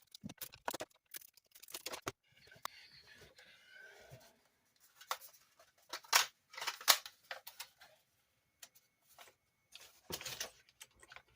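Sharp clicks and knocks of small plastic and metal parts being handled and fitted on an RC car, with a short rasping scrape about two seconds in.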